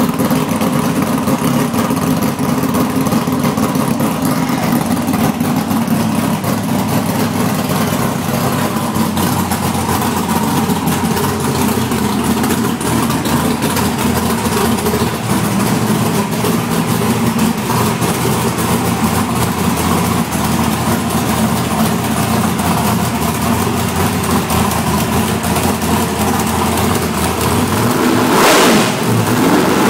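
A new small-block Chevy V8 running steadily, with a loud rev near the end.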